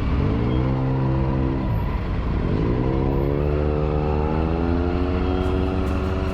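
Triumph Tiger 900 GT's three-cylinder engine accelerating: its pitch rises, drops at a gear change about two seconds in, then climbs again and levels off.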